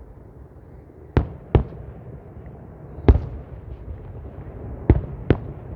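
Fireworks bursting: two quick sharp bangs, then a single louder one about three seconds in, then two more quick bangs near the end, over a steady low rumble.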